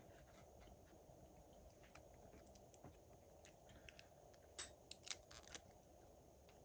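Faint small clicks and light snips of small hand tools working on phone parts, with a couple of sharper ticks about four and a half and five seconds in.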